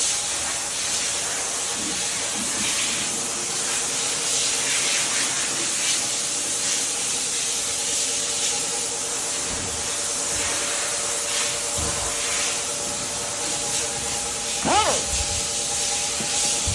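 Palm sander running steadily on a headlight lens: a constant hiss over a steady motor hum. A short tone rises and falls once near the end.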